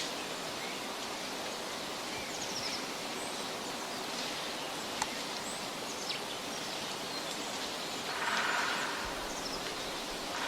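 Forest ambience: a steady rushing hiss with faint, scattered bird chirps, one sharp tick about halfway through, and a brief louder swell of hiss near the end.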